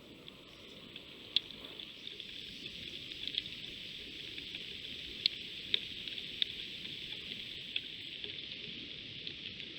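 Rain falling: a steady hiss with a few sharp drops tapping close by, picked up by a trail camera's microphone along with a faint high electronic whine.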